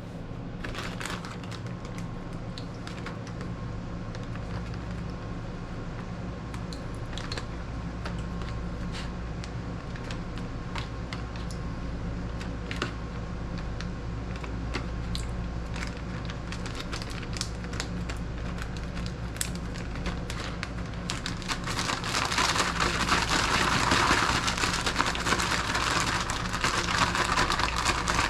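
Scattered pops and crackles, then about three-quarters of the way through a much louder, dense sizzle sets in and keeps going: battered fish frying in hot grease.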